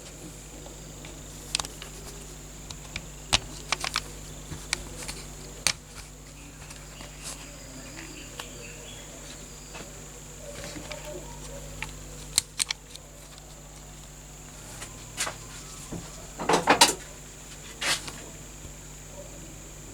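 Scattered light clicks and knocks as small parts of a metal toy car are handled and worked on, with a short cluster of louder knocks about three seconds before the end, over a steady low hum.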